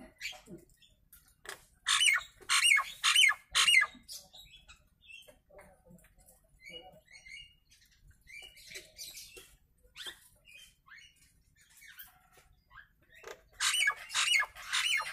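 Jalak nias, a starling kept as a cage bird, giving its natural call: a run of about five loud, harsh notes about two seconds in, a second loud run near the end, and softer chattering notes between.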